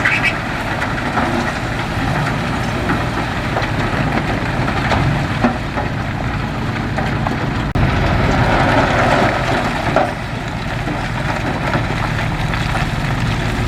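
Diesel engine of heavy earthmoving machinery running steadily, with a brief dip in loudness a little past halfway.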